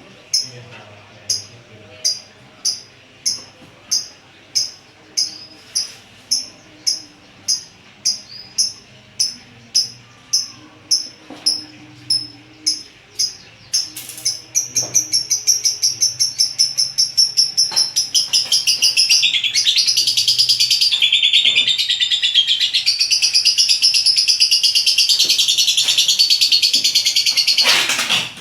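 Lovebird calling: a sharp high chirp repeated evenly about three times every two seconds, then speeding up about halfway in into a fast, continuous chattering that cuts off abruptly near the end.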